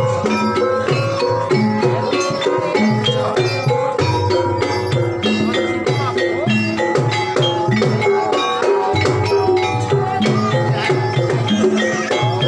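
Banyumasan ebeg (kuda lumping) accompaniment music: hand drums and tuned percussion keep up a dense, steady rhythm under ringing pitched notes.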